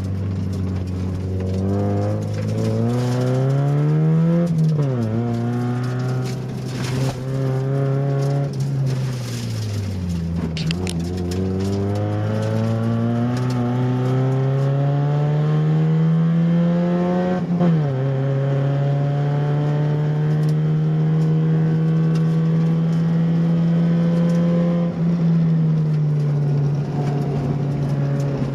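Mazda Miata's engine driven hard on a drift lap, heard from inside the car. The revs climb and fall repeatedly, with sharp drops about four and a half, ten and eighteen seconds in. They are then held high and steady for several seconds and ease down near the end.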